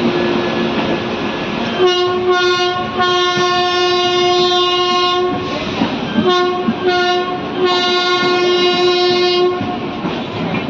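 Locomotive horn sounding over the steady rumble and clatter of a train running on the track: one long blast of about three seconds with a couple of brief breaks, then two short blasts and a final long blast.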